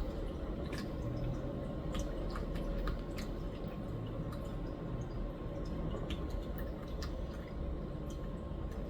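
Irregular soft clicks and ticks as a cat bites and paws at a catnip-stuffed toy bird, over a low steady hum.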